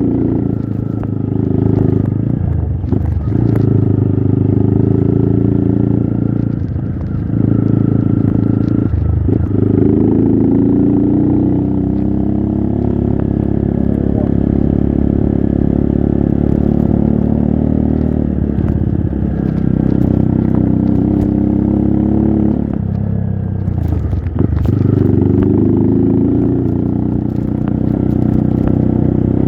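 Trail motorcycle engine running under load, its pitch rising and falling with the throttle. It dips briefly several times as the throttle is eased off, with some light clattering.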